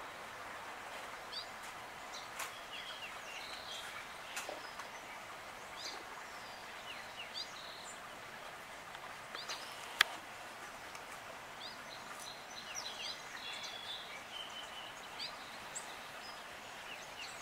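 Birds chirping outdoors: many short, scattered chirps over a faint steady background hiss, with one sharp click about ten seconds in.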